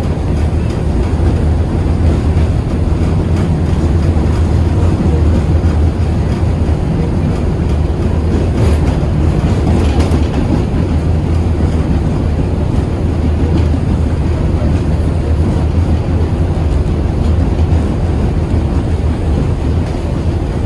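KTM-8KM tram running between stops: a steady low rumble with wheel and rail noise, and two brief clicks about nine and ten seconds in.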